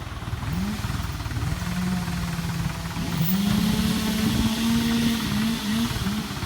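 A tractor engine revving under load. Its pitch climbs, holds steady, steps up higher about three seconds in, then dips and rises again in a few short blips near the end.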